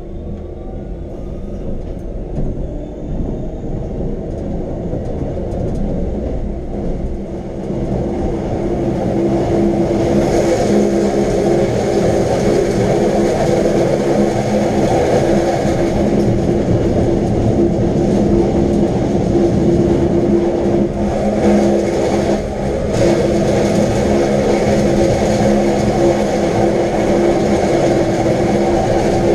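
Electric rack-railway train of the Wengernalp line running, a continuous rumble with a steady hum that builds over the first ten seconds and then holds.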